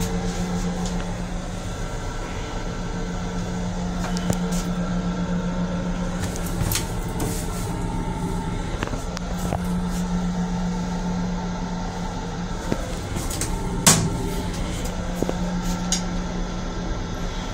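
Steady hum and rumble of an M7 electric commuter railcar heard from inside its small restroom, with a few short knocks and one sharper knock about fourteen seconds in.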